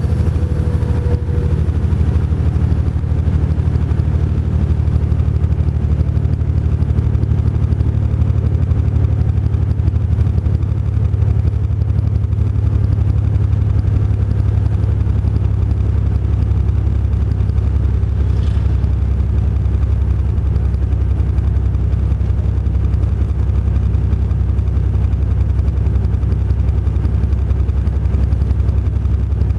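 Truck engine running at a steady, unchanging low drone, as from a tractor-trailer driving along.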